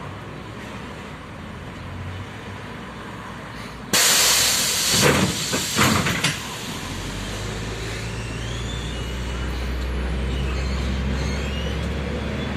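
Inside a MAZ-105 bus: a sudden loud hiss of compressed air about four seconds in, lasting about two seconds with a couple of knocks, from the bus's pneumatics. Then the engine's low drone rises steadily as the bus pulls away.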